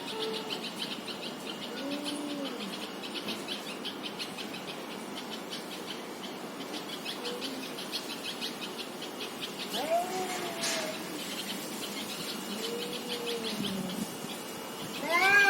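Street cats in a fighting standoff, yowling at each other: a few drawn-out growling yowls that rise and fall in pitch, spaced several seconds apart, with a louder rising yowl near the end. A fast, faint high chirping runs behind them for the first half.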